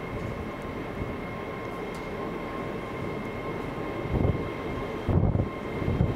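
A train running at a railway station: a steady rumble with a few held whining tones, and some low thumps in the last two seconds.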